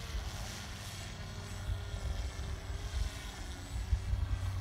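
Wind buffeting the microphone in gusts, with the faint steady whine of a radio-controlled paramotor's motor and propeller.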